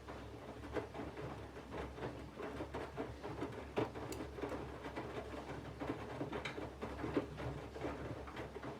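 Candy GVF4 front-loading washing machine in its main wash: the drum turning, with wet laundry and water tumbling in irregular soft knocks and splashes over a steady low motor hum.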